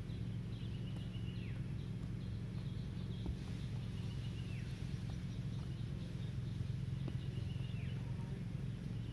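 A bird repeating one call three times, about every three seconds: a held high note that drops sharply at its end. A steady low hum runs underneath.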